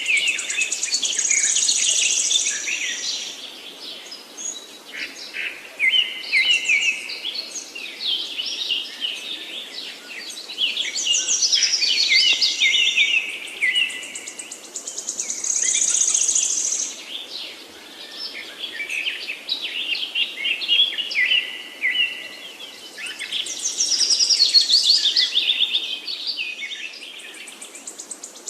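Several songbirds singing at once in a forest. Their songs come in phrases of rapid notes a few seconds long, overlapping and swelling again every few seconds, with high trilling passages among them.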